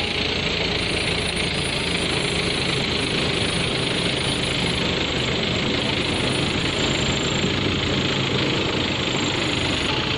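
A vehicle engine running steadily with a low, rapid pulse.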